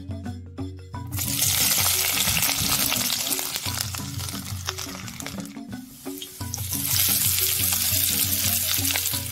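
Garlic cloves and then sliced onions dropped into hot coconut oil in a wide metal pan, sizzling. A loud sizzle starts about a second in and fades, then a second loud sizzle starts about six and a half seconds in. Background music plays underneath.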